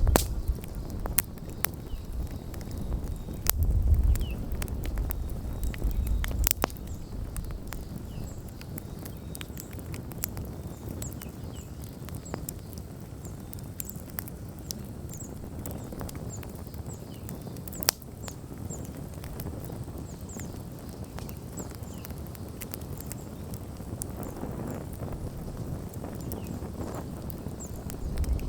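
Wood bonfire burning down, crackling with many scattered sharp pops. A low rumble is heavier in the first few seconds and returns near the end.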